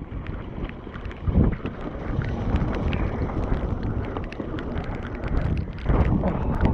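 Strong wind buffeting the microphone while riding a full-suspension mountain bike over a rough trail, with a steady run of sharp clicks and rattles from the bike. The wind swells about a second and a half in and again near the end.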